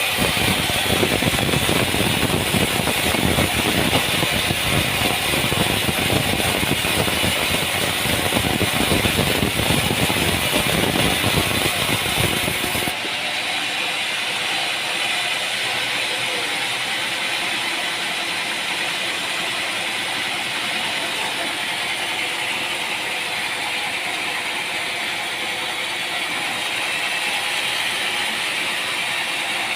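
Sawmill machinery running with a rattling mechanical noise. About 13 seconds in the sound changes abruptly to a thinner, steadier machine noise with much less low end.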